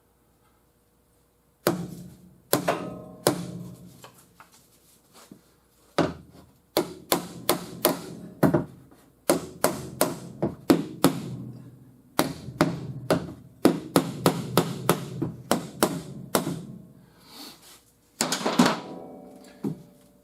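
Hammer blows on a car's sheet-metal body panel, knocking down high spots: quick runs of sharp strikes with short pauses, starting about two seconds in.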